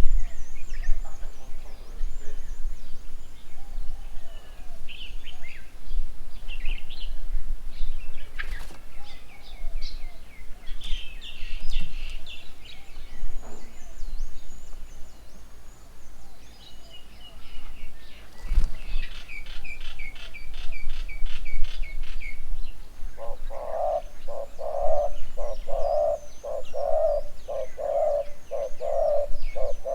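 Wild birds calling: a mix of high chirps and short whistled phrases, then, from about two-thirds of the way through, a low hooting call repeated steadily, roughly one and a half hoots a second.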